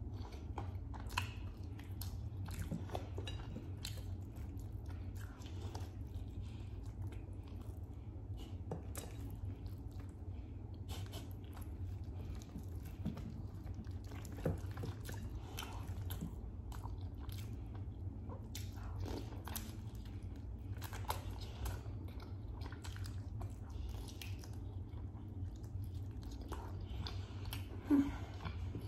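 Close-miked mouth sounds of a person biting and chewing grilled chicken: irregular wet smacks and small clicks, with one sharper click near the end. A steady low hum sits beneath.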